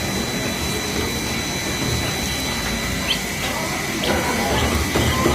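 Ducklings peeping, a few short high peeps in the second half over a steady background hiss.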